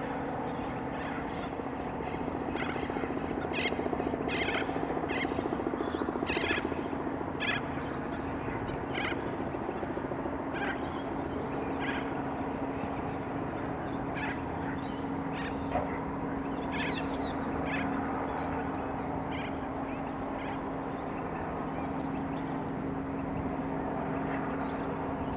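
Birds calling in short, repeated chirps over a steady low drone.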